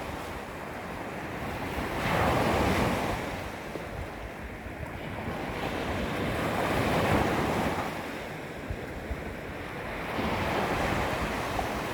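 Small waves lapping against a beach, each washing in with a rush that rises and fades, a few seconds apart. Wind rumbles on the microphone underneath.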